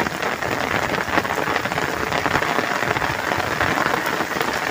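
Steady rain pouring down onto puddled, waterlogged earth, a dense patter of drops.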